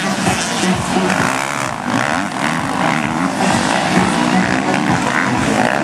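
Several motocross bike engines buzzing at once, their pitch rising and falling as the riders open and close the throttle.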